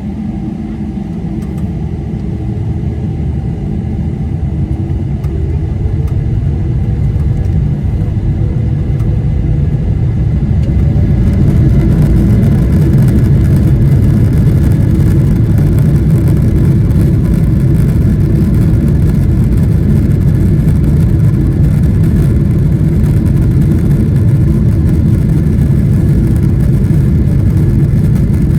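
Boeing 777-300ER's GE90 turbofan engines spooling up to takeoff thrust. A tone rises in the first several seconds while the deep rumble grows louder, then holds at a steady loud level for the takeoff roll.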